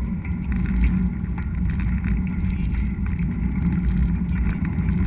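Steady low rumble of wind and riding noise on an action camera's microphone while mountain biking, with a few faint rattles.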